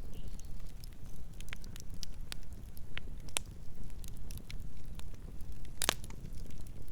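Campfire burning: a steady low rumble of flames with scattered sharp crackles and pops of burning wood, the loudest pop a little before the end.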